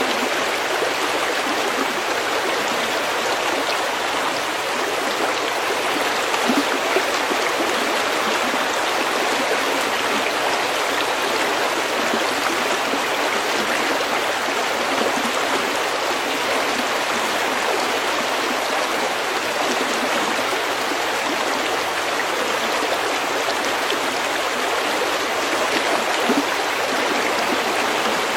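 A shallow stream flowing and burbling over pebbles, a steady, even rush of water.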